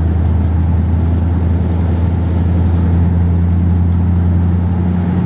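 1957 Ford Thunderbird's Y-block V8 running steadily while cruising, heard from inside the cabin as a constant low drone with road noise. The engine is running smoothly on a two-barrel carburettor and fresh spark plugs.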